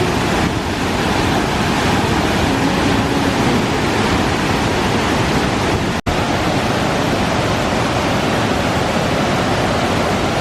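Waterfall rushing: a loud, steady roar of falling water with no let-up. The sound drops out for an instant about six seconds in.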